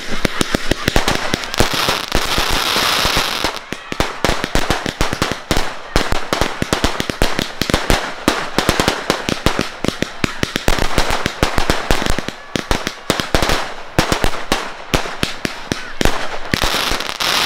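Fireworks being fired: a hiss as the first shot rises, then a dense, rapid run of bangs and crackles as shots launch and burst, with another hiss about three seconds before the end.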